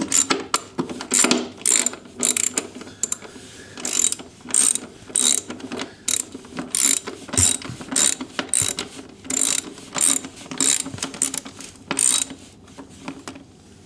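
Hand ratchet driving a Torx T30 bit, tightening the screws of a snowmobile's bottom cover plate: a run of sharp ratcheting clicks in back-and-forth strokes, about one to two a second, that stops shortly before the end.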